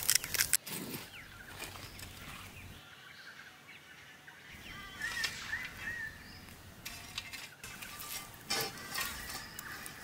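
A dry crackle of salt crystals rubbed between fingers and sprinkled, dying away in the first half-second. Then a quiet outdoor background, with a bird giving a few short chirps about five seconds in and a brief run of crackling clicks near the end.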